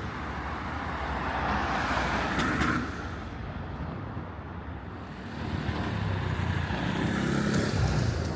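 Road traffic on a city street: a car passes about two seconds in, and another vehicle builds up from about the middle and passes near the end.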